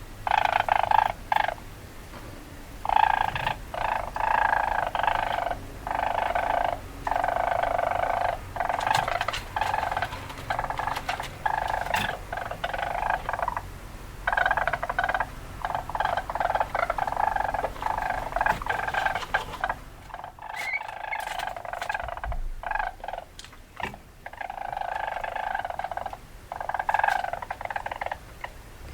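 Weasel calls: pitched animal calls repeated in bursts of about a second or two, with short gaps between them.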